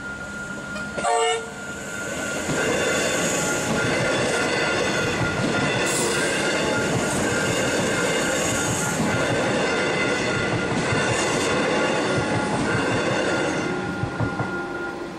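An electric suburban train gives a short horn blast about a second in, then runs through the level crossing with a long rumble and clatter of wheels and a high-pitched whine. The crossing bell rings steadily throughout and stops near the end.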